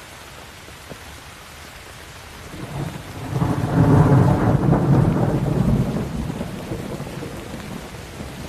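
Steady rain falling, with a roll of thunder that builds about two and a half seconds in, is loudest around four seconds, then slowly rumbles away.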